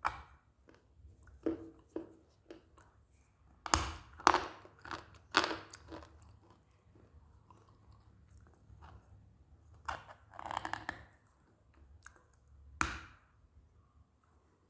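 Close-up crunching and chewing of hard, dry pieces of edible earth. Sharp separate crunches come loudest about four to six seconds in, with a cluster about ten seconds in and another near thirteen seconds.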